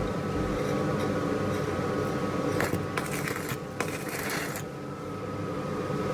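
Stick welder striking an arc on cast iron at about 100 amps: a few sharp clicks from the electrode on the metal and a brief crackle of arc about four seconds in, over a steady machine hum.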